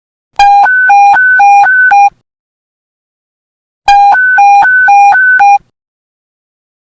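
Police radio panic-button alert tone: a two-pitch beep alternating rapidly between a low and a high note. It sounds twice, in bursts of just under two seconds, about a second and a half apart.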